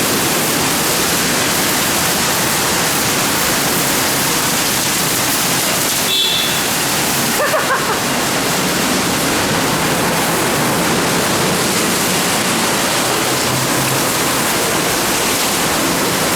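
Steady, loud rush of water spraying onto a car's body in a BayWash I5 soft-touch automatic car wash, heard from inside the car. A few faint brief chirps break through about halfway.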